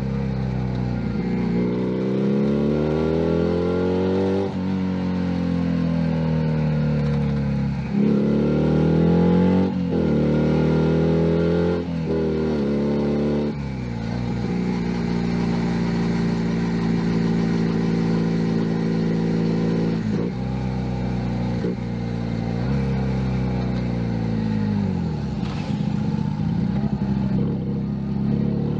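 A Junak M11 Cafe's 125 cc single-cylinder engine pulls through the gears, its revs climbing and dropping back at each shift. It then holds a steady cruise, falls away to low revs about three-quarters of the way through, and picks up again near the end.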